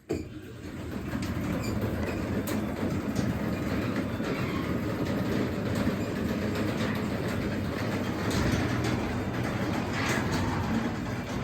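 Craftsman 3/4 hp DC belt-drive garage door opener starting suddenly and running steadily as it closes the garage door, a continuous rumble with a few scattered clicks.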